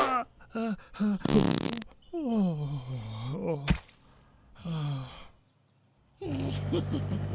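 Cartoon sound effects of someone straining on a toilet: a sputtering fart sound and long, falling groans, with one sharp click in the middle. After a short silence, a steady low hum starts near the end.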